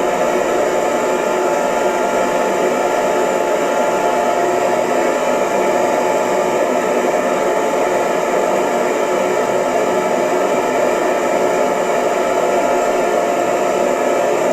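Hair dryer running at a constant speed: a steady blowing whoosh with a faint motor hum and no change in pitch or level.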